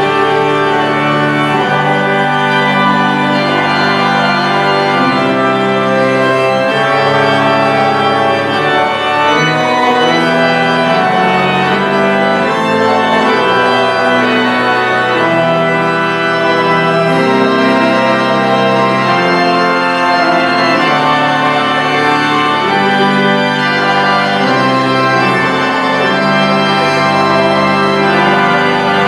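Church organ playing a slow piece of held, full chords that change every second or two, at a steady volume.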